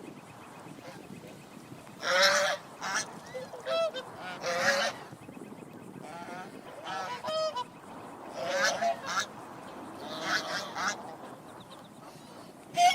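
Waterfowl calling: about a dozen loud honking calls in short bouts, starting about two seconds in.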